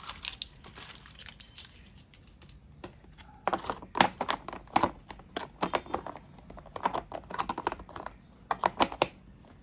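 Keys clicking as someone types on a computer keyboard, in uneven bursts that grow quicker and louder about three seconds in.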